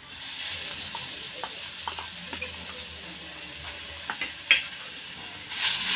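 Mashed eggplant pulp sizzling in hot oil in a stainless-steel kadhai as it is put in and worked with a spoon, with a few sharp clicks of metal on the pan. The sizzling grows louder near the end.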